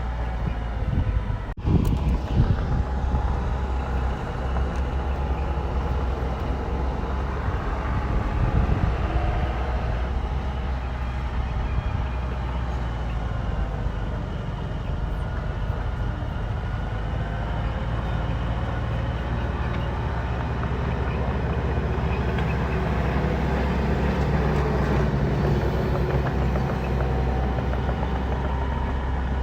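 Bulldozer's diesel engine running, its pitch rising and falling as it works, with a brief break about a second and a half in.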